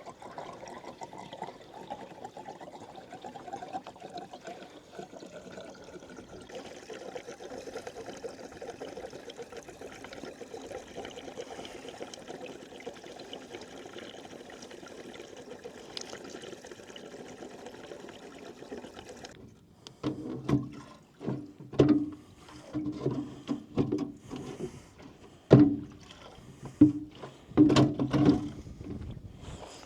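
Diesel fuel pouring steadily from a jerry can into a fuel tank, stopping sharply about two-thirds of the way in. Several hollow knocks and clunks follow as the can is handled.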